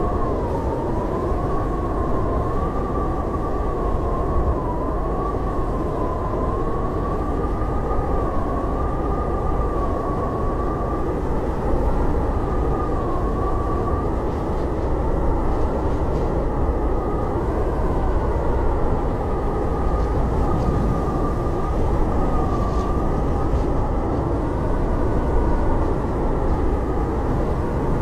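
Howling blizzard wind: a steady low rushing roar with a thin whistle that wavers slowly up and down in pitch.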